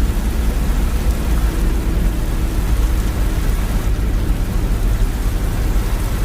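Heavy rain pouring on a moving car, an even hiss over a steady low rumble of the car on the wet road.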